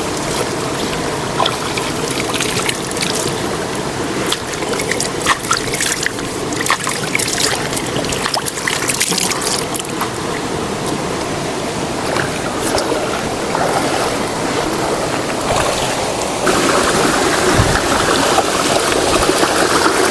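Stream water running and trickling over rocks, with many small splashes and ticks. The rush of water gets louder about sixteen seconds in.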